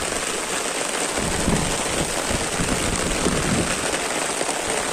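Rain falling steadily on wet ground and puddles, an even hiss. Low rumbles come and go from about a second in until nearly four seconds in.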